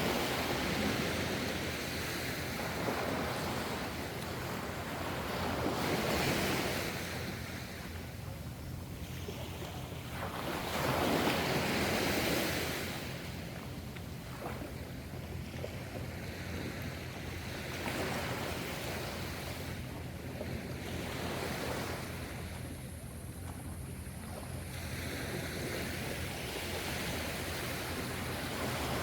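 Ocean waves breaking and washing on the shore in slow surges, a loud wash about every five seconds at first, the biggest around the middle, then gentler swells.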